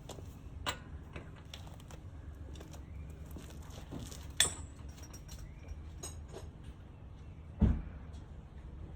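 Metal hand tools clinking as they are handled: a few separate clinks, a sharper ringing one about four seconds in and a heavier thump near the end, over a low steady hum.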